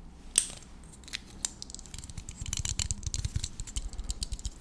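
An ASMR trigger object handled close to the microphone: one sharp click about half a second in, then a dense run of small rapid clicks and snips.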